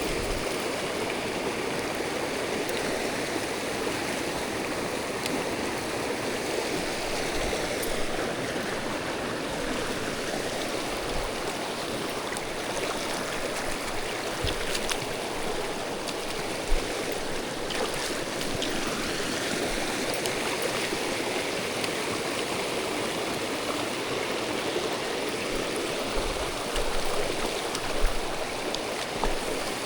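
Mountain stream water rushing steadily over rocks, with a few brief low bumps about halfway through and near the end.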